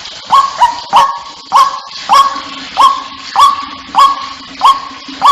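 White-breasted waterhen calling: a steady run of loud, clipped calls, nine in a row, about every 0.6 s. Each is a short note that slides up and then holds.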